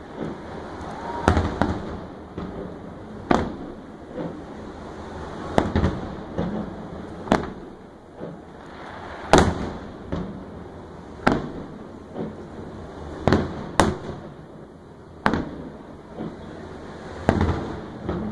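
Fireworks display: sharp booms of aerial shells, mostly about one every two seconds, with two in quick succession about two-thirds of the way through.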